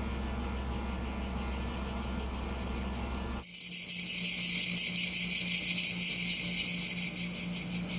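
Chorus of 17-year periodical cicadas: a high, fast-pulsing buzz of about seven pulses a second. About three and a half seconds in it becomes louder and fuller.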